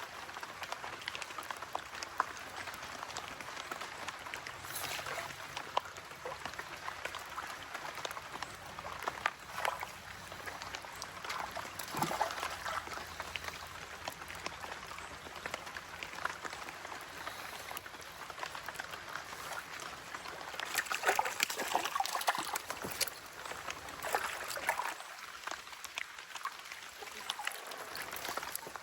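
Creek water running and trickling, with scattered sharp clicks and a louder stretch of water noise about three quarters of the way through.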